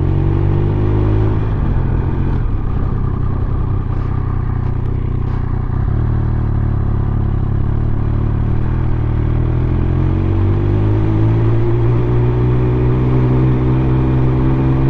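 Triumph Speed Triple 1200 RS inline three-cylinder engine running as the bike is ridden slowly, its note rising steadily from about ten seconds in as the revs climb.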